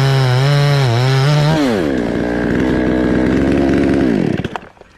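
Chainsaw running at full throttle in the cut, its pitch wavering under load, then dropping to a lower, steadier speed about two seconds in. Near the end the engine note slides down and the sound falls away as the throttle is released.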